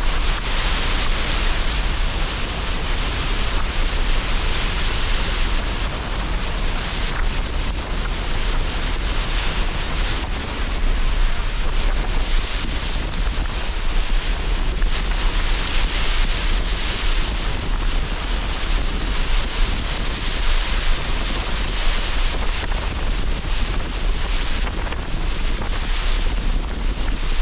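Sea surf breaking against the shore under strong, gusting wind, with a steady low wind rumble and washes of waves rising and falling every few seconds.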